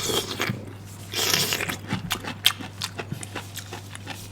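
Close-miked chewing of crunchy pickled bamboo shoots: a run of short crunches and wet mouth clicks, with a louder, noisier swell about a second in.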